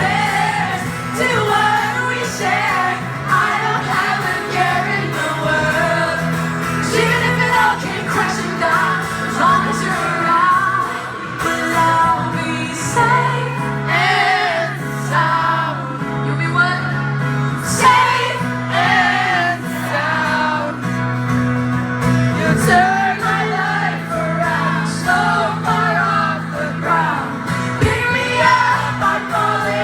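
A pop-punk band playing live with singing over it, steady and loud throughout.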